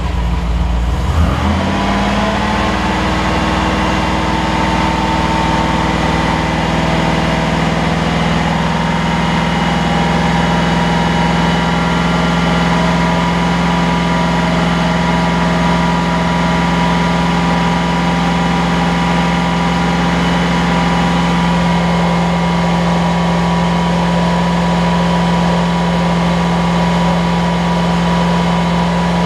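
Triumph TR8's Rover V8 engine running, with a brief surge about a second in, then settling into a steady idle.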